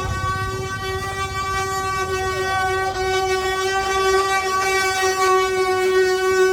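Wooden ox cart axle singing: a loud, steady, horn-like drone at one fixed pitch with many overtones. This is the cart's 'canto', made by the wooden axle turning against its wooden bearing blocks as a loaded cart rolls.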